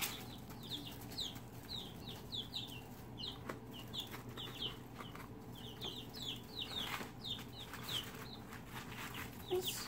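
Young backyard hens (pullets) peeping in a stream of short, high, falling notes as they chase and peck at live crickets, with faint scattered taps.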